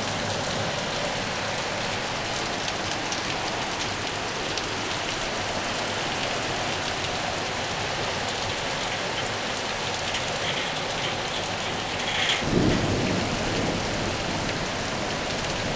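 Heavy rain pouring steadily in a windstorm, with a short low rumble about twelve seconds in.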